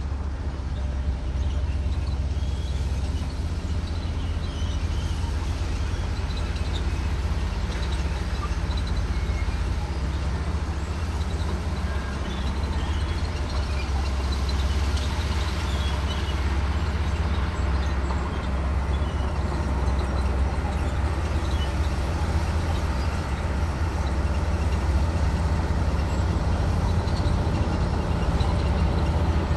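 Komatsu D58E bulldozer's diesel engine running steadily, a deep, even drone.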